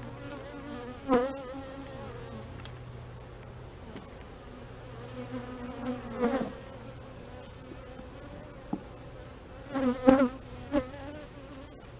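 Honey bees buzzing at an open hive, a steady hum. Louder, wavering buzzes come about a second in, again around six seconds, and twice near ten seconds.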